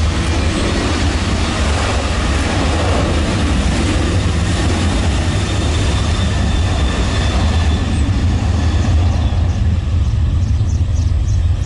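Aircraft engine noise from a plane taking off or landing: a loud, steady roar with a heavy low rumble underneath, its upper hiss thinning about nine seconds in.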